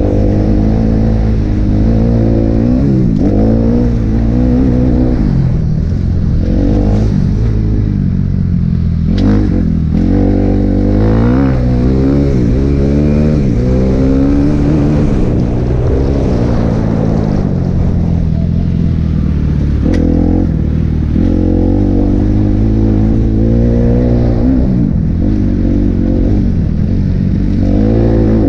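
Kawasaki KX250F motocross bike's four-stroke single-cylinder engine revving under riding, its pitch rising and falling over and over as it accelerates and backs off, with a few sharp drops in revs, one about nine seconds in and another near twenty seconds.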